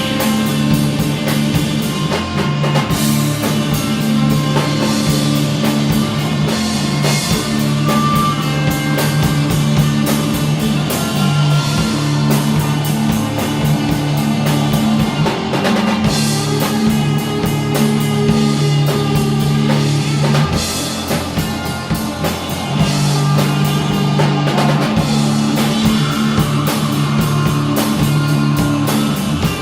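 Stoner rock played by a band: electric guitars holding low sustained notes over a drum kit keeping a steady beat.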